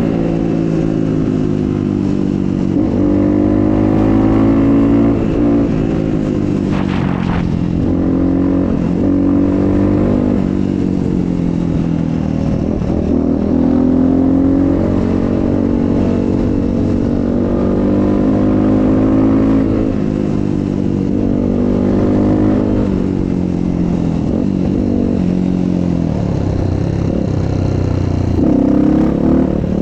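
Motocross bike engine running under way, its pitch rising and falling over and over as the throttle opens and closes.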